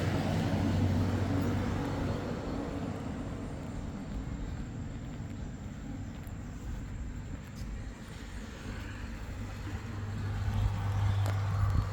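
Road traffic: a motor vehicle's steady low hum and tyre noise fading away over the first few seconds, then another vehicle approaching, growing louder near the end.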